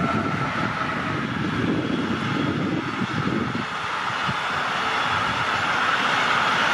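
Train running on the track: uneven low rumbling in the first half, then a smooth rush of wheel and rail noise that grows steadily louder toward the end.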